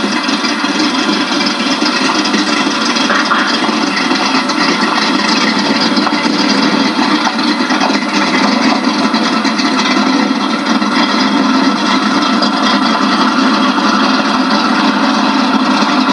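A 1968 Mercury Cougar's modified 302 V8 with a solid-lifter cam, running at low speed as the car backs out of the garage and turns. It is heard through a television's speaker, so it comes across as a steady, muffled rumble.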